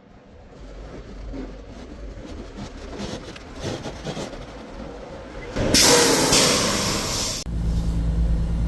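Semi truck's rumble and rattle, then a loud air-brake hiss lasting under two seconds, about six seconds in. Right after, a steady low diesel engine hum.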